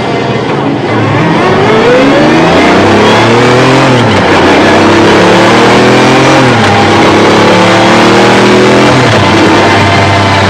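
Mercedes-AMG CLK-GTR's V12 exhaust under hard acceleration: the engine note climbs from about a second in, with a sudden drop in pitch at each of three upshifts.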